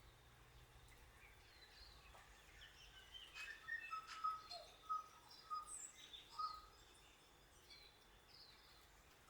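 Faint, steady hiss of light rain, with a bird calling a run of short chirps in the middle, several on the same pitch.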